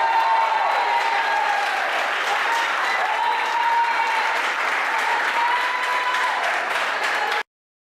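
Audience applauding, with raised voices over the clapping; the sound cuts off abruptly near the end.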